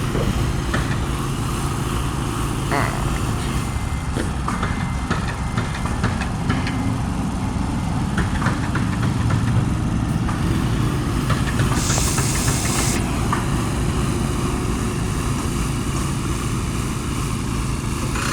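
Garbage truck's diesel engine idling steadily, with a short hiss about twelve seconds in.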